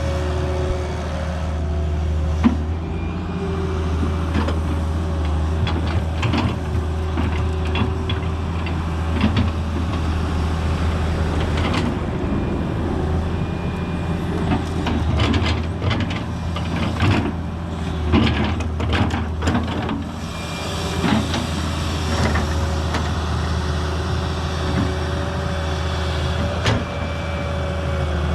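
Excavator's diesel engine running steadily with hydraulic whine, while the bucket scrapes and knocks through dry mud in a string of clunks and clatters, busiest in the middle of the stretch.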